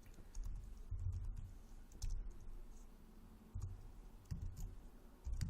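Computer keyboard typing: irregular, scattered key clicks with short pauses between them.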